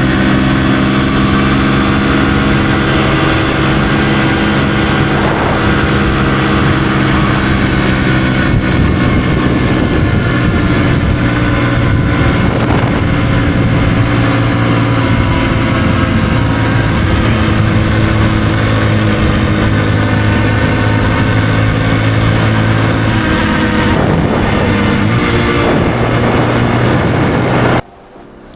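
Kawasaki KLX150E's single-cylinder engine running at a steady cruising speed, its note shifting slightly now and then. It cuts off suddenly near the end.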